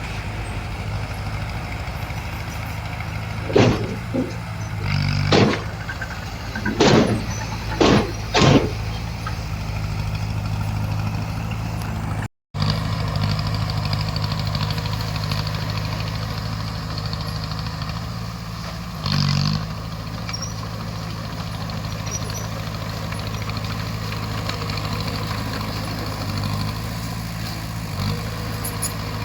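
Bulldozer's diesel engine running steadily, with a string of sharp metallic clanks from about three to eight seconds in and another about nineteen seconds in. The sound cuts out for a moment about twelve seconds in.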